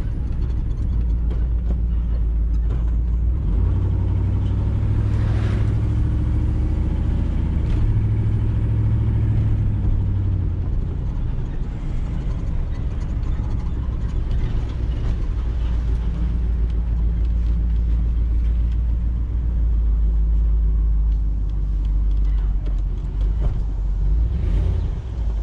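Tow truck's engine running steadily, picking up in revs for several seconds from about four seconds in, then settling back.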